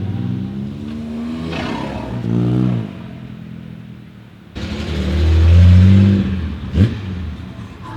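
Car exhausts at idle and revving. About two seconds in, one engine revs up and drops back. Then, after an abrupt cut, a second car runs loud, with a quick rising rev blip near the end.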